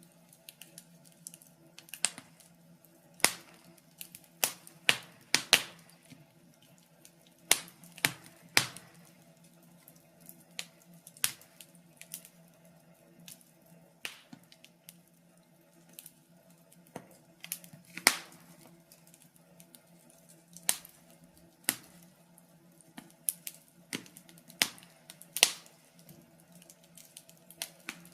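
Wood fire crackling: irregular sharp pops and snaps, one or two a second, over a faint steady low hum.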